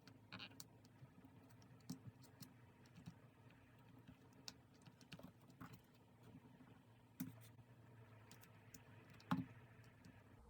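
Faint, irregular small clicks and taps of paper and stationery being handled on a desk while decorating a journal, with one sharper click a little after nine seconds in.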